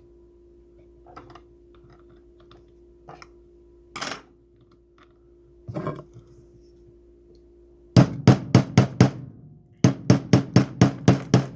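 Metal-on-metal hammer taps on a pin punch, driving a flip key's roll pin out through the repair station. A few scattered handling clicks come first, then about eight seconds in a fast run of strikes, about five a second, a brief pause, and a second run.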